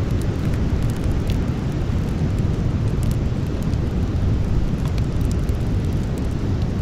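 Campfire burning: scattered sharp crackles and pops of the burning wood over a steady low rumble.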